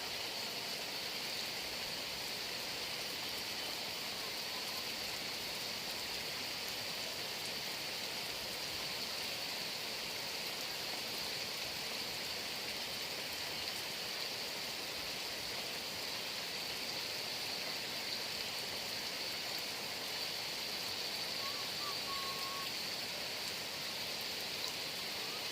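Heavy rain falling steadily, a dense even hiss with a steady high-pitched tone running above it.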